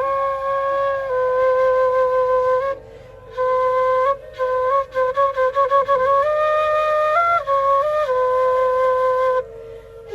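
Bansuri bamboo flute playing a slow melody: long held notes with a run of quick ornamented note changes in the middle, and short pauses for breath about three seconds in and near the end.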